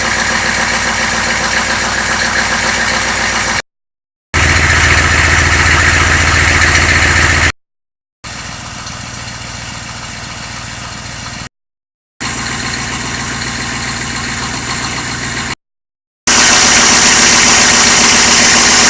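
6.2-litre V8 engine running steadily, heard as about five short separate clips of a few seconds each, split by brief silences and differing in loudness; the last clip is the loudest.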